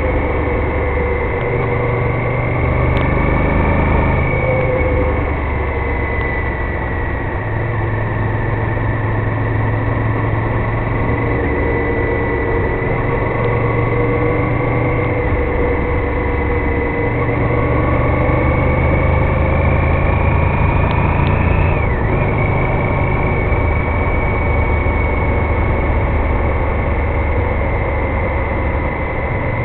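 Honda VTR1000F Firestorm's 996 cc V-twin engine running while riding, its pitch slowly rising and falling as the revs change, over steady wind noise.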